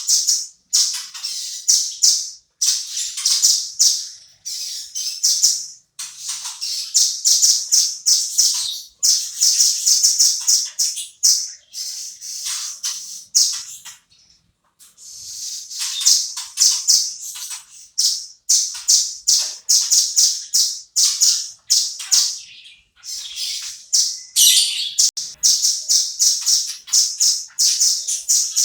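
Velvet-fronted nuthatch singing: rapid strings of high, sharp notes in bursts with short pauses between, and a brief silence about halfway through.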